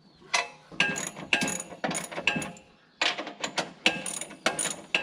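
Hand ratchet wrench clicking on metal: repeated sharp metallic clicks, about two a second, in two runs with a short pause in the middle.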